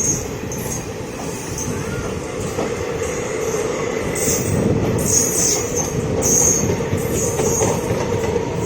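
Passenger train of ICF coaches rolling out of a station: a steady rumble of wheels on the rails, with short high-pitched wheel squeals that come and go, strongest about halfway through.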